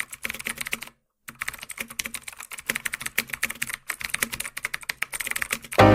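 Keyboard typing: rapid, irregular key clicks that pause briefly about a second in. Music starts right at the end.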